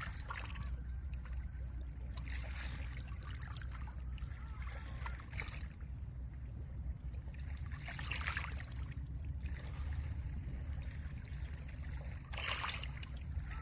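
Small Lake Ontario waves washing onto a pebble shore, a rush of water every three or four seconds over a steady low rumble.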